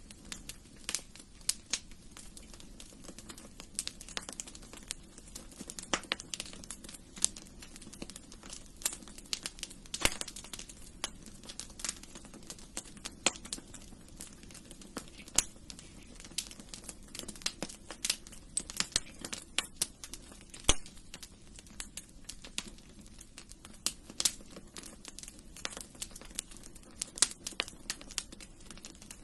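Wood fire crackling in a fireplace: irregular sharp pops and snaps over a steady low rush of flame.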